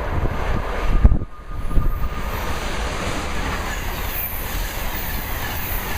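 Electric passenger train passing at express speed: a steady rushing of wheels on rail, with a faint high wheel squeal partway through.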